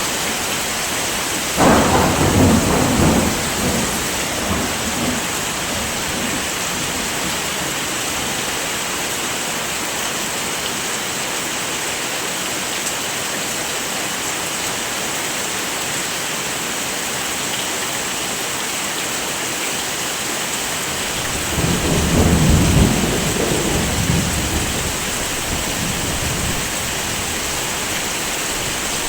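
Heavy rain falling steadily, with two rolls of thunder: a sudden rumble about two seconds in and a longer one that swells and fades a little past twenty seconds in.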